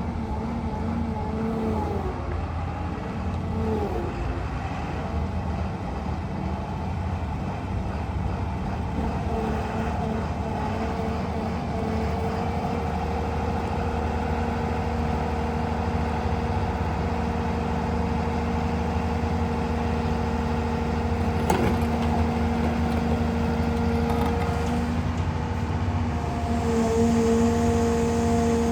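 Caterpillar M322C wheeled material handler running: a steady diesel engine with a whine whose pitch shifts from time to time as the machine works. A single sharp knock comes about three quarters of the way through, and the whine rises and gets louder near the end.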